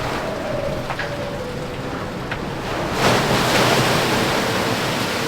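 IMOCA 60 racing yacht under way at speed: water rushing along the hull and wind, with a steady hum throughout. About three seconds in, a louder rush of spray and water surges for a second or two.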